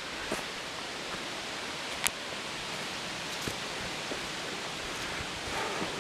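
Hikers' footsteps and gear scuffing and clicking as they climb a steep trail bank, over a steady rushing hiss; one sharp click stands out about two seconds in.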